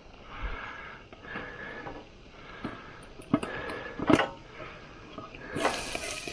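Food sizzling in a pan on an MSR WhisperLite International camp stove, a steady hiss, with a couple of sharp metal clinks from a utensil against the pan about three and four seconds in.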